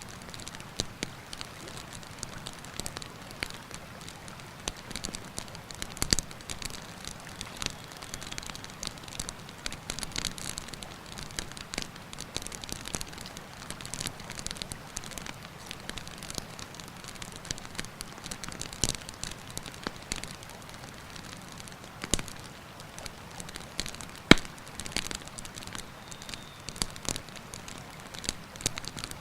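Campfire burning, wood crackling with frequent sharp pops scattered throughout, one loud pop about 24 seconds in, over the steady rush of a river.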